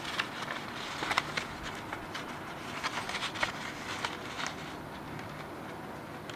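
A sheet of printer paper being folded by hand: rustling with a run of sharp crackles over the first few seconds, then quieter.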